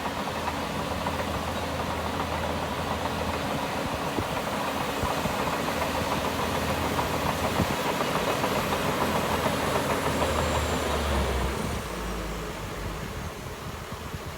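Diesel engine of heavy earthmoving machinery running steadily, getting louder for most of the time, then dropping off sharply near the end.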